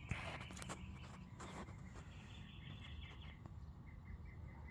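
Quiet outdoor ambience: a small bird chirping in rapid repeated series, about six chirps a second, starting about two and a half seconds in. A few soft knocks of camera handling in the first second and a half, over a faint low rumble.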